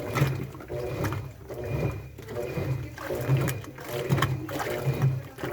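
Washing machine running, its motor turning the drum in short surges that repeat about once a second, typical of the tumbling of a wash cycle.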